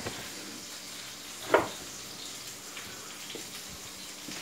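French fries sizzling steadily in hot oil, with one short knock about a second and a half in.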